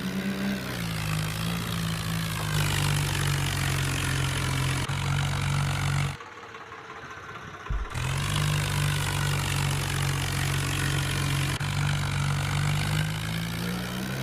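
Tractor engine running steadily with slight changes in pitch, dropping away for about two seconds midway and then resuming.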